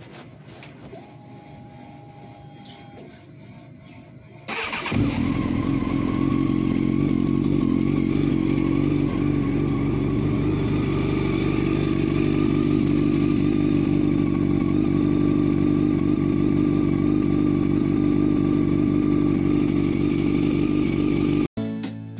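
Honda CBR954RR's inline-four engine starting on a newly fitted battery: a short crank that catches almost at once, about four seconds in, then a steady idle. It cuts off abruptly near the end.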